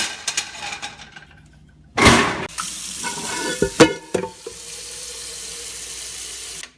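Water running from a kitchen tap into a sink, with pots and dishes clanking in it a few times. The water shuts off suddenly near the end.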